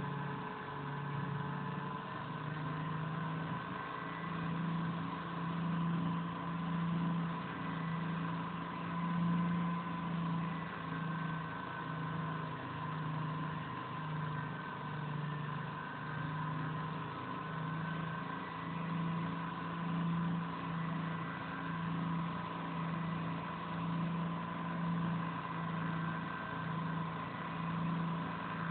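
Distributor test machine spinning a distributor at high speed while a modified ignition box fires it past its rev limiter. It is a steady machine drone with a low hum that swells and fades about once a second, over a thin high steady whine.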